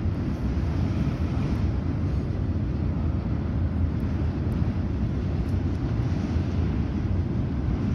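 Distant freight train rolling across a railroad bridge: a steady low rumble with no horn or clear engine note.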